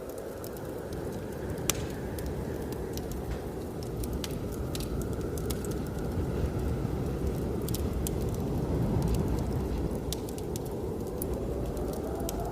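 Wood fire crackling with scattered sharp pops, over the steady low rush of blizzard wind. A whistling gust rises near the end.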